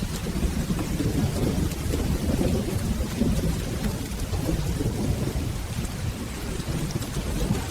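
Steady rain with a continuous low rumble of rolling thunder underneath.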